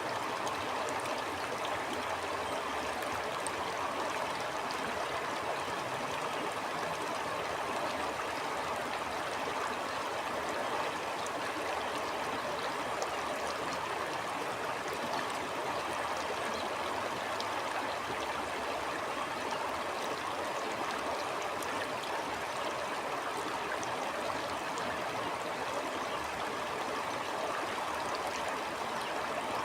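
A stream flowing steadily: a continuous, even rush of water, with faint small ticks scattered through it.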